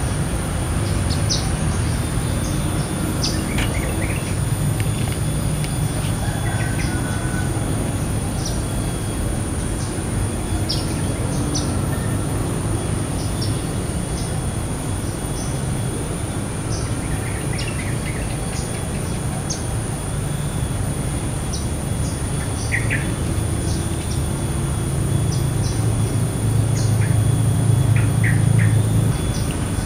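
Small birds giving short, high chirps, scattered singly and in little clusters, over a steady low rumble that swells near the end. A faint steady high whine runs underneath.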